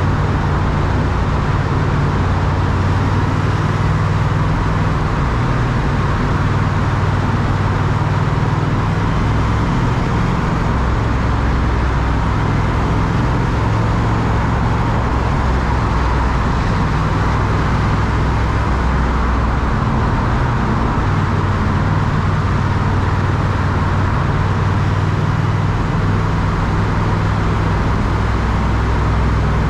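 Triumph Speed Twin's parallel-twin engine running under way, its low drone stepping up and down in pitch several times with throttle and gear changes, over steady road and wind noise.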